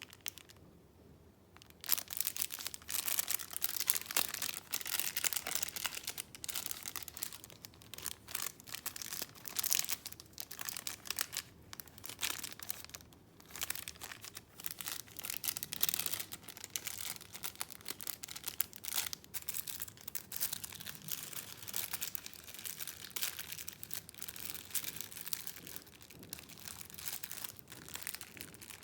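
Paper rustling and crinkling as junk-journal papers are handled, with many small crackles and ticks; it starts about two seconds in and goes on unbroken.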